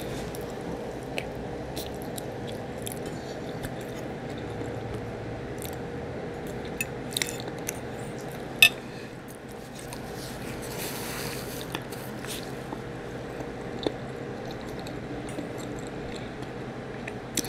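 Close-up mouth sounds of someone chewing barbecue rib meat with the mouth closed: soft wet squishing, with scattered sharp clicks, over a faint steady hum.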